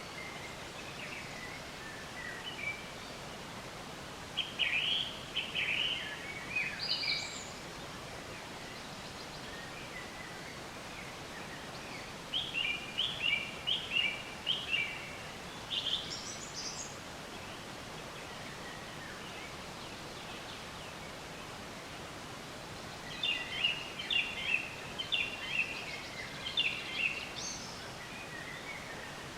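A songbird singing three phrases of quick chirping notes spaced several seconds apart, each phrase ending on a higher note, over a steady outdoor hiss.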